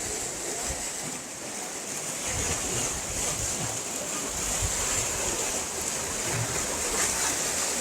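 Steady rush of flowing water, with wind buffeting the phone's microphone in irregular low rumbles from about two seconds in.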